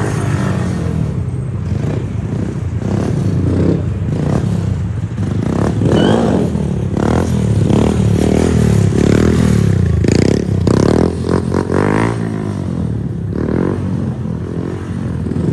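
Small motorbike engines running and revving, their pitch repeatedly rising and falling with the throttle, several overlapping, most busily through the middle.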